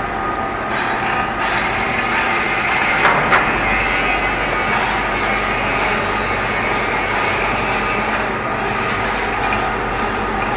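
Steady, loud machinery din of a ship's engine room, with a few faint steady tones in it and a couple of brief knocks about three seconds in.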